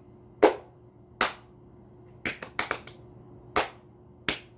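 About seven sharp hand claps, irregularly spaced, with a quick pair of claps a little past halfway.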